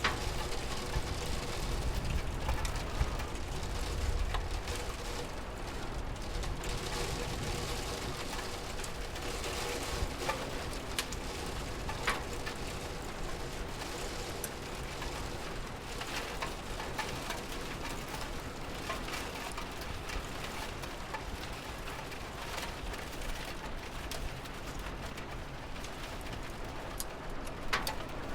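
Steady rain falling, with scattered individual drops ticking out above it, and a low rumble in the first few seconds.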